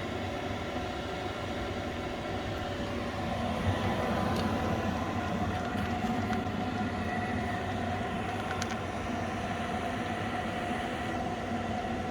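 A steady mechanical drone with a low hum and a couple of faint clicks, getting slightly louder a few seconds in.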